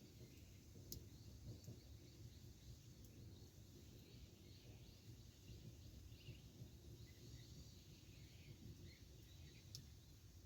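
Campfire burning quietly: a low steady rumble with a sharp crackle about a second in and another near the end. Faint short bird chirps in the background.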